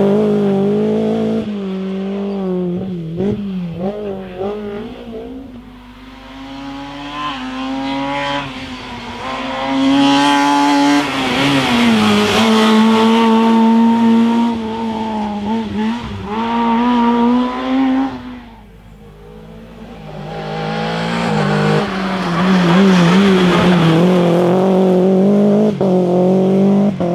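Rally cars at full throttle on a special stage, engines revving up and dropping back through the gear changes as they come past. The engine noise fades down about six seconds in and again near nineteen seconds, each time building back as the next car comes through.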